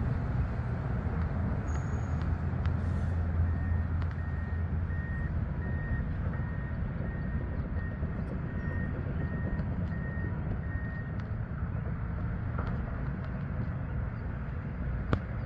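Heavy construction vehicle's engine running with a low, steady rumble while its reversing alarm beeps about a dozen times at an even pace, then stops. A single sharp click comes near the end.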